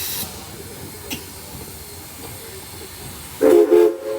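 Steam locomotive: a hiss of steam fades out at the start, then a low rumble. Near the end, two short blasts of its chime whistle, a chord of several tones.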